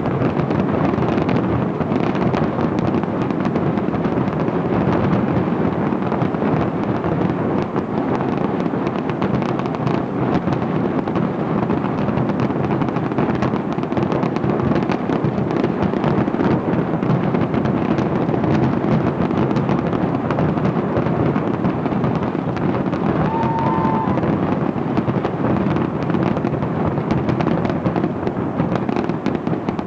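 A dense, unbroken barrage of aerial fireworks: many shells bursting on top of one another with a continuous rumble of booms and crackle, the loudness holding steady throughout.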